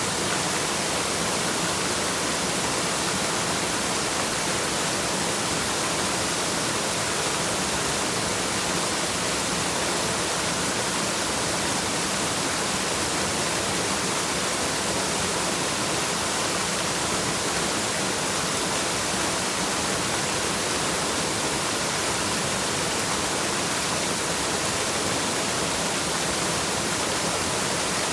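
Waterfall: a steady, even rush of falling water, with more hiss than rumble.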